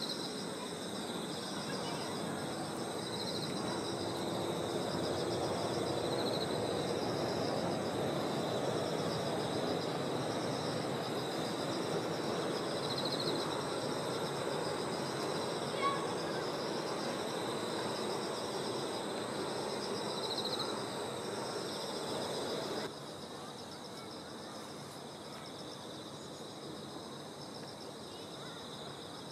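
Distant Shinkansen train passing on the viaduct: a broad rushing noise that swells, holds for several seconds and fades, cut off suddenly near the end. Insects chirp in steady pulsing trills throughout.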